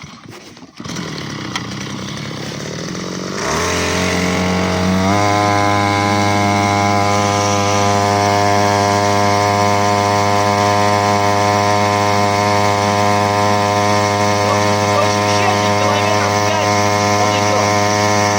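Small Chinese outboard motor of about 3 horsepower running. About three and a half seconds in it gets louder and its pitch rises over a second or so, then it holds a steady speed.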